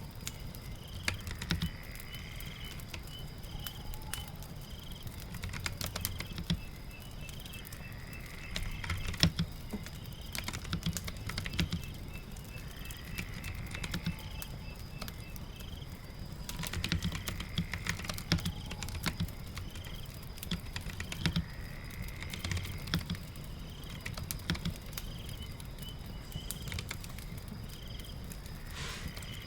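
Computer keyboard typing in irregular bursts of clicks over a steady ambience of rain and a crackling fire.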